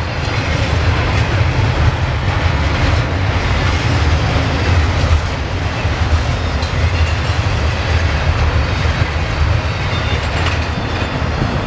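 Norfolk Southern double-stack intermodal freight train's container well cars rolling past: a steady, heavy, low rumble of steel wheels on rail, with a few faint clicks.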